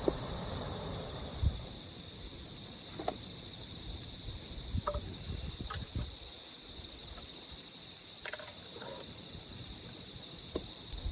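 Crickets singing in a steady, unbroken high-pitched chorus, with a few faint knocks.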